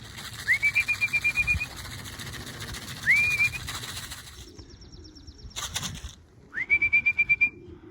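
Three short trilled whistle blasts, each sliding up into a warbling held note, from a pigeon fancier's pea whistle calling racing pigeons down onto the loft.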